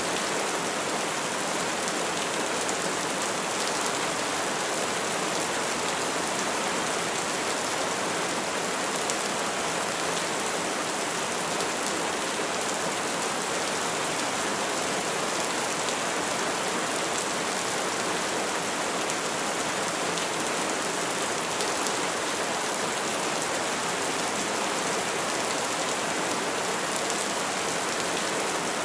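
Steady, heavy rain falling on surfaces: an even hiss of drops with no thunder.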